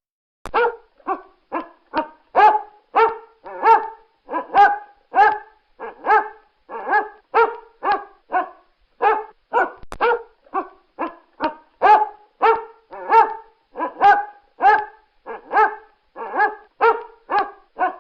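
A dog barking over and over in a steady rhythm, about two short barks a second.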